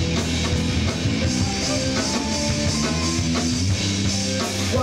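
Live rock band playing between vocal lines: electric guitars and a drum kit, steady and loud.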